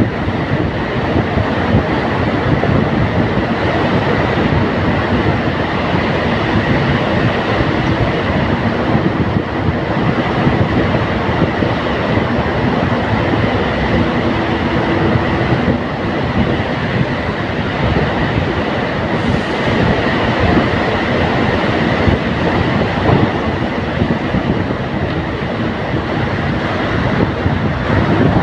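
Loud, steady rumble of a vehicle in motion, with a faint steady high tone running through it.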